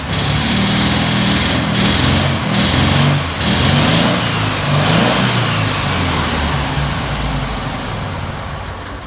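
Porsche 912 air-cooled 1.6-litre flat-four running loud on an engine dyno, its revs rising and dipping several times before it winds down over the last few seconds.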